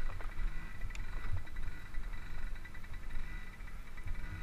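Small children's dirt bike engine running steadily as the bike rides off slowly, with wind rumbling on the camera microphone.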